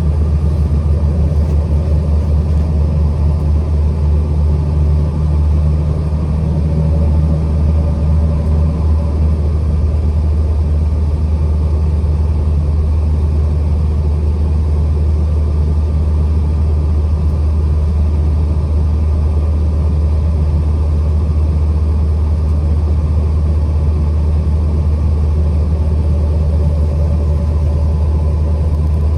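Truck being driven: a steady low rumble of engine and road noise, even throughout.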